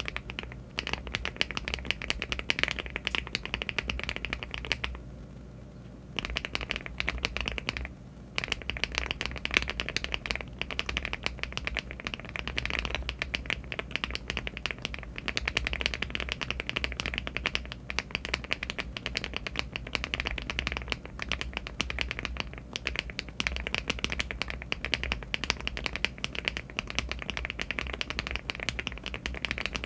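Fast typing on a LEOBOG Hi75 aluminium mechanical keyboard fitted with HMX Hyacinth V2U linear switches (52 g) and Cherry-profile keycaps: a dense, continuous patter of keystrokes that stops for about a second around five seconds in.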